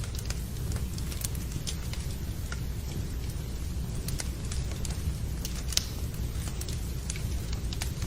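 Wood fire crackling and popping, with irregular sharp snaps over a steady low rumble of rain.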